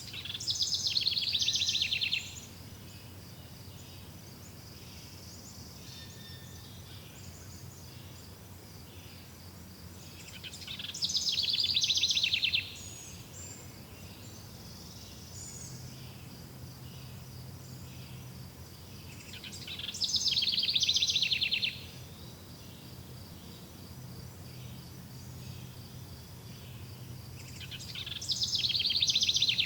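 A songbird singing a loud, rapid phrase of about two seconds, repeated four times roughly every nine seconds, over a steady high insect trill.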